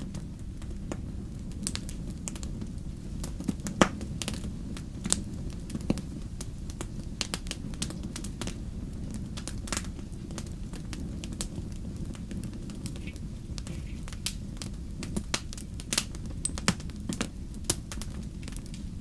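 Wood fire crackling in a fireplace: a steady low rumble of flames with frequent sharp, irregular pops and snaps, a few louder ones scattered through.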